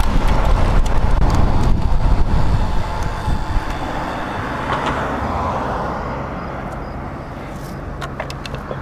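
Wind and road noise on a bike-mounted camera microphone while riding, easing off over the second half, with traffic sounds around the middle and a few light ticks near the end.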